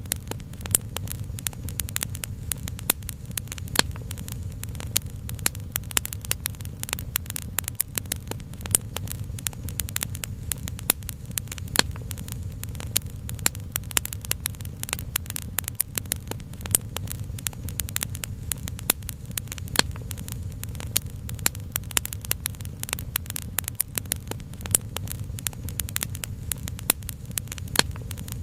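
Wood fire crackling steadily, with many irregular sharp pops over a low, even rumble.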